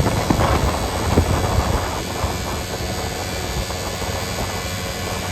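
Vehicle running along a road, with steady engine and road noise and a few knocks in the first two seconds.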